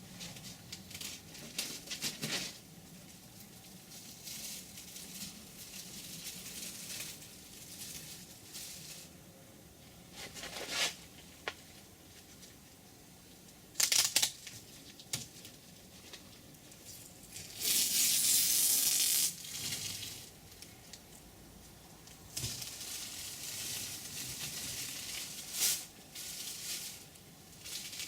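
Masking tape being peeled off freshly sprayed paintwork on a car boot lid in irregular ripping pulls, with masking paper crinkling. The longest and loudest pull comes about two-thirds of the way in and lasts under two seconds.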